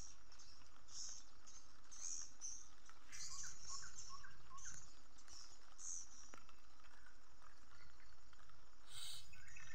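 Swiftlets chirping at a swiftlet house: short, high twittering calls repeating every half second or so, with a busier run of chirps from about three to five seconds in and a louder burst near the end.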